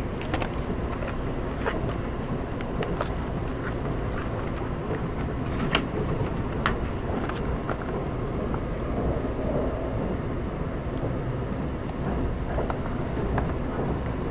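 Kintetsu Aoniyoshi limited express train running, heard from inside the carriage: a steady rumble of wheels and running gear, with scattered light clicks.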